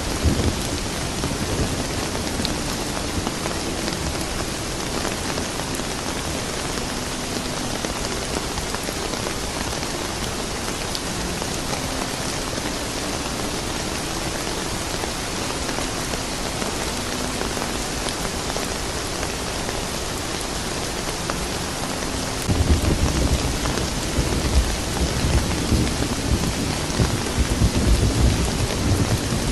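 Steady rain falling, with a low rumble of thunder rolling in about three quarters of the way through.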